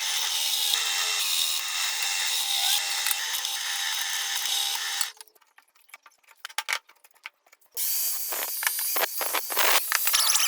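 A power tool running: about five seconds of steady high-pitched noise, then a pause of about two and a half seconds with a few scattered clicks, then it runs again.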